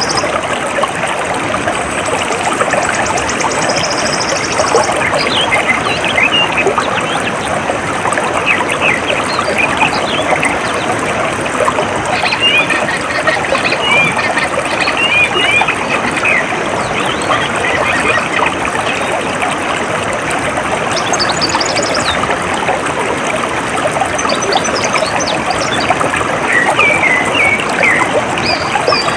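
Small stream trickling and flowing steadily, with birds chirping in short calls over it at intervals. A high, fast buzzy trill sounds for the first few seconds.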